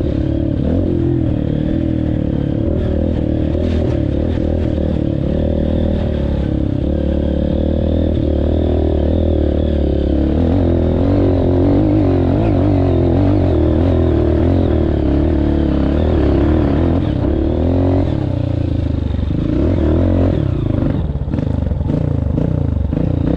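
Honda CRF230F's single-cylinder four-stroke engine running steadily under way on a trail, its pitch rising and falling with the throttle.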